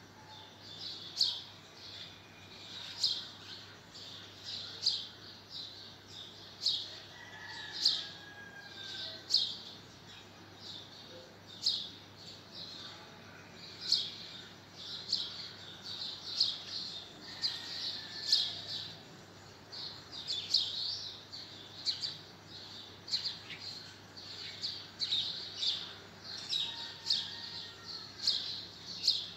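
Small birds chirping: short, sharp, high-pitched chirps, one to several every second or so, over a faint steady hum.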